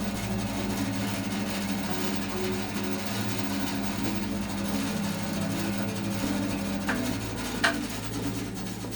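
Record Power BS350S 14-inch bandsaw running free on its first start-up after assembly, a steady motor-and-blade hum. Two short clicks come near the end, the second one louder.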